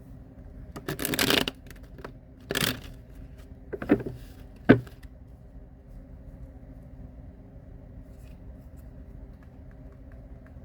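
Tarot cards being shuffled and handled: two short papery rustles in the first three seconds, then a few clicks and one sharp tap at about four and a half seconds.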